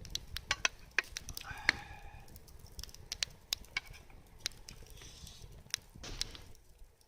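Wood campfire crackling with irregular sharp pops, over a low rumble. A short pitched sound stands out about one and a half seconds in.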